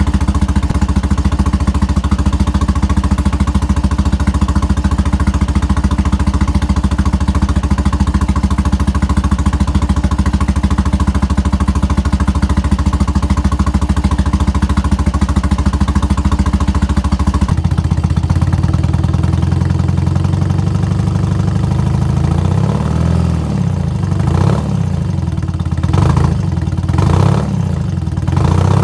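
1982 BMW R45's air-cooled flat-twin (boxer) engine idling steadily. After a cut about two thirds of the way in, it is heard close to the exhaust and blipped several times, the revs rising and falling.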